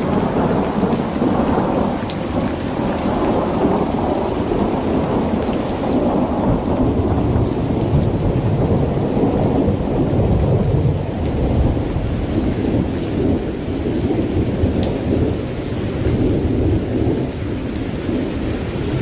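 Heavy rain with a continuous deep rumble of rolling thunder that swells and eases in slow waves, and a few sharp drip ticks above it.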